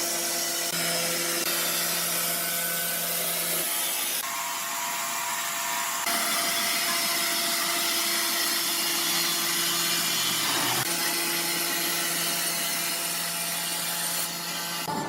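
Sawmill saw running and cutting through timber, a steady mechanical whine with a hiss of sawing. The sound shifts abruptly a few times, as from one cut to another.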